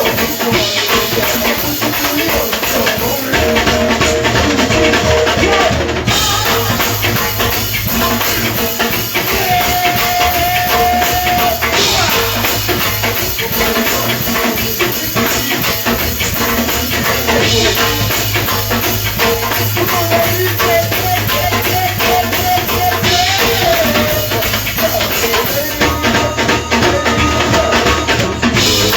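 Live band music driven by a drum kit, playing a steady groove with hand percussion such as tambourine.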